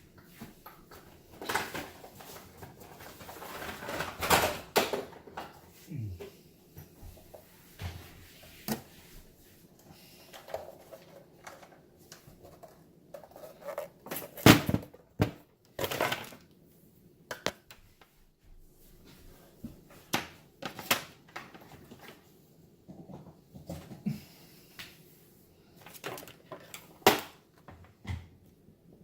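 Small parts and tools being handled on a workbench: irregular clicks, taps and clatters, the loudest knocks about halfway through.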